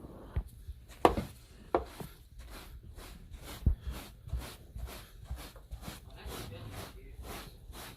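A dog panting quickly and rhythmically, about three to four breaths a second, with a few sharp knocks and thumps in the first four seconds.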